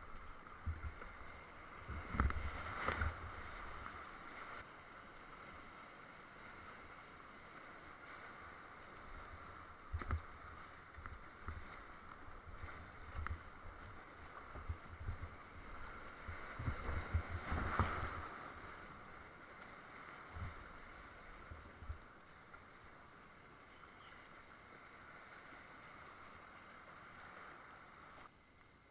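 Whitewater creek rushing steadily under a kayak, with scattered low thuds and knocks, bunched a few seconds in and again a little past halfway.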